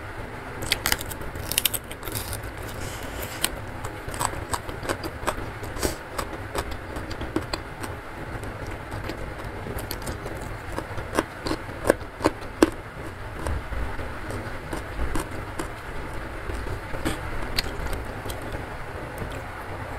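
Close-miked eating by hand: wet chewing and smacking with many short crunchy clicks, over a steady hiss of heavy rain.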